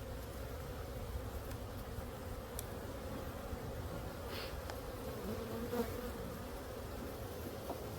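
Honey bees buzzing around an open hive: a steady, even hum at one pitch, with a few faint clicks.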